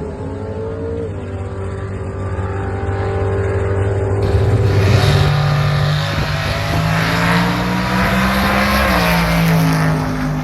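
Drag racing car engine running loud at a steady pitch. Around four to five seconds in it gets louder and brighter as the revs step up and hold, then drop back near the end.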